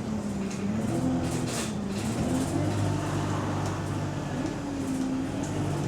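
Single-decker bus engine heard from on board, with an exhaust leak. Its note dips and rises during the first couple of seconds, then settles into a steady low drone.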